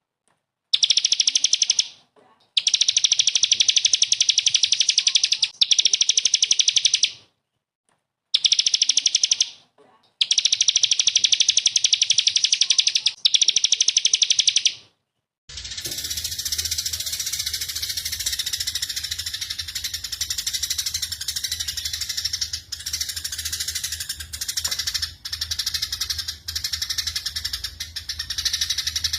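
Recorded small songbird singing very rapid, machine-gun-like trills ('tembakan'), high-pitched and delivered in four long bursts with short pauses. About halfway through it switches to a different recording of continuous twittering over a steady low hum.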